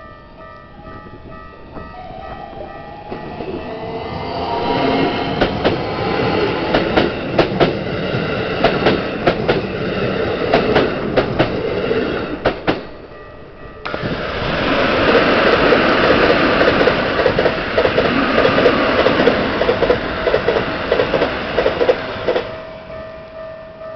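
Level-crossing warning bell ringing in a steady pulse. A Keikyu 1000 series electric train then passes over the crossing at close range, its wheels clacking over the rail joints. After a brief lull a second Keikyu train passes from about 14 s and cuts off sharply near the end, when the crossing bell is heard again.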